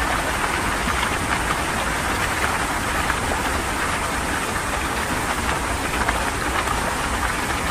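Heavy rain falling in a steady, dense rush.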